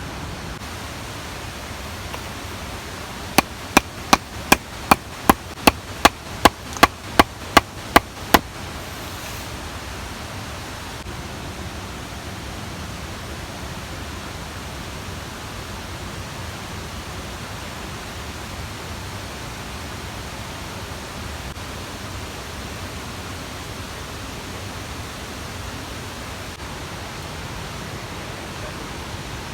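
Steady rushing of a mountain stream. A little over three seconds in, about a dozen sharp, evenly spaced strikes come two to three a second for about five seconds.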